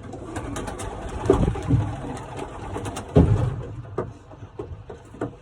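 Racing pigeons cooing in a loft, mixed with scattered clicks and flutters. Two louder low thumps land about a second and three seconds in.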